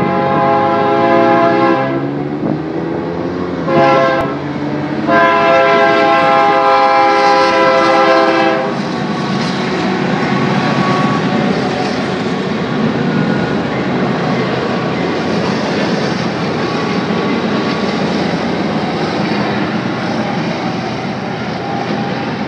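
Train horn sounding three blasts: a long one, a short one, then a longer one ending about nine seconds in. It is followed by the steady rumble of a train passing on the rails.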